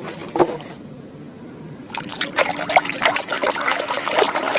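Water trickling and splashing as a muddy plastic toy animal is washed, busier in the second half.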